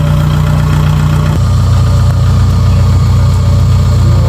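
Diesel engine of a Kubota DC-70 rice combine harvester running steadily; about a second and a half in its note changes abruptly to a lower, fuller rumble.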